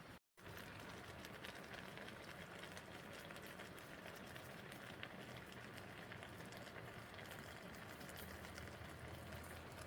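Steady hissing noise dotted with many fine crackles, over a low rumble.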